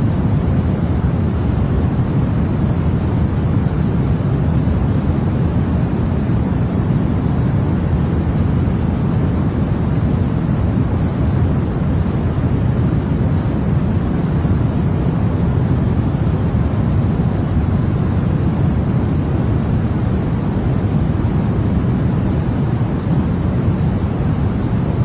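Continuous white noise for infant sleep: a steady, unchanging rush, weighted to the low end so it sounds deep rather than hissy.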